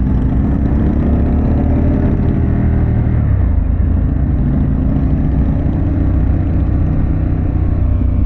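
2024 Harley-Davidson Pan America's Revolution Max 1250 V-twin with a Vance & Hines exhaust, riding under power. The engine note rises for about three seconds, drops a little over three seconds in as it changes gear, then runs on steadily over a heavy low rumble.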